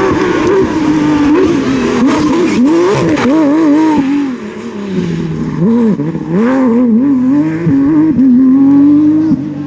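Rally car engine accelerating and changing gear, its pitch climbing and dropping with each shift. About halfway it lifts off briefly, with a few quick throttle blips, then pulls steadily up again near the end.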